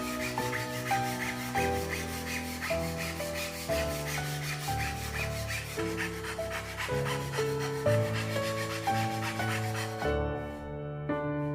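Quick, even back-and-forth strokes of a hand tool rubbing on wood, such as hand sawing or sanding a board, over background piano music. The strokes stop about ten seconds in, leaving only the music.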